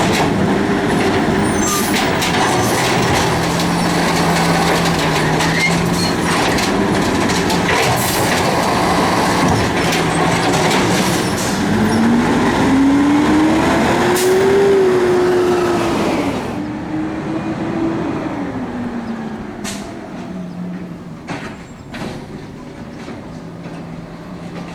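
City garbage truck working at close range: diesel engine running under a loud hiss. About twelve seconds in the engine note rises and falls back, and at about sixteen seconds the hiss cuts off and the sound drops, leaving a quieter idle with a few sharp clanks.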